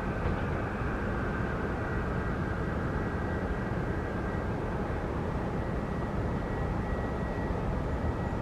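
Steady jet airliner noise on an airport apron: a continuous low rumble with a thin, steady high whine over it.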